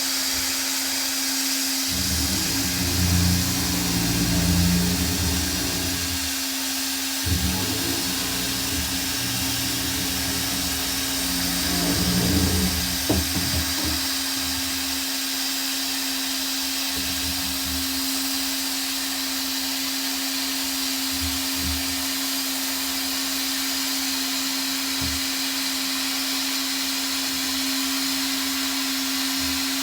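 Hot-air plastic welding gun blowing steadily, a constant airy hiss with a hum under it. Low rumbles come and go in the first half, and a few soft knocks follow later.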